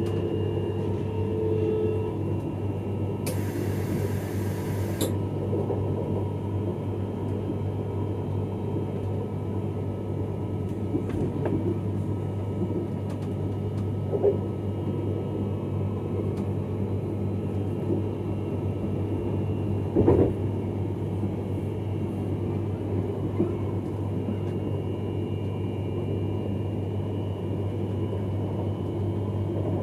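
X31 electric multiple unit running along the track, heard from inside the rear driving cab as a steady low rumble and hum. There is a brief hiss about three seconds in that cuts off suddenly, and a few short knocks from the running gear, the loudest about twenty seconds in.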